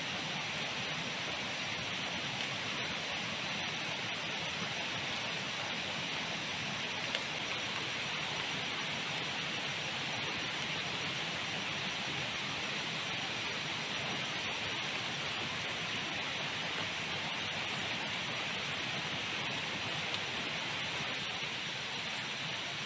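Heavy rain falling steadily in jungle, a constant even hiss with a few single drop taps.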